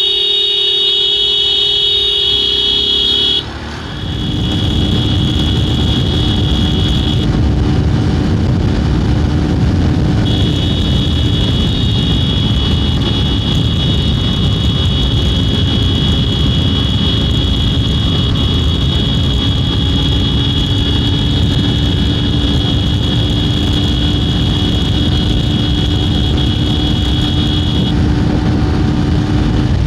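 Hero Xtreme 200R single-cylinder motorcycle being ridden, a steady rumble of engine and rushing air. For the first few seconds a steady buzzing tone is heard before the rumble comes up.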